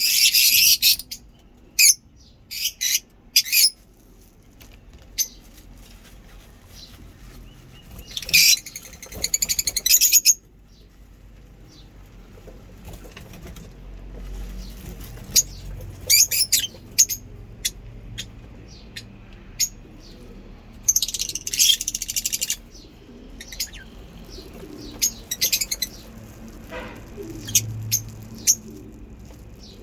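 Lovebirds chattering in clusters of shrill, high chirps and squeaks, a few seconds at a time, with quieter gaps between the clusters.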